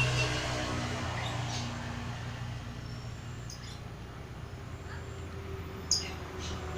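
Juvenile Oriental magpie-robin giving soft, scattered twittering chirps, the quiet practice song of a young bird learning to sing, over a steady low hum. A brief sharp click comes near the end.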